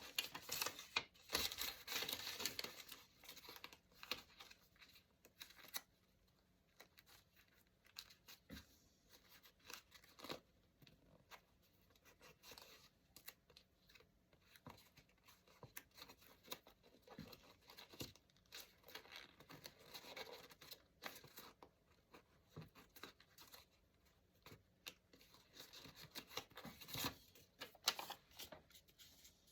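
Paper being torn and crinkled by hand in short rustling bursts, busiest in the first few seconds and again near the end.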